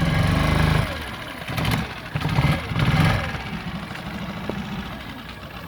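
Small outboard motor on a dinghy running again after being submerged in saltwater, its carburetor cleaned and given new oil and a new spark plug. It surges louder a few times in the first three seconds, then settles and runs more quietly.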